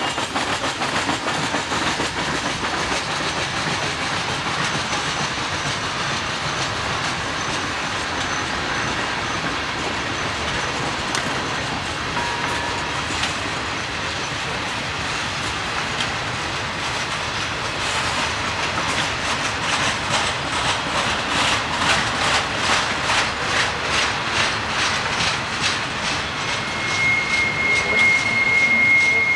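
A freight train of tank cars and container well cars rolling past, with a steady rumble of wheels on rail. Over the second half the wheels click rapidly and evenly over the rail joints and get louder, and near the end a high steady wheel squeal sets in.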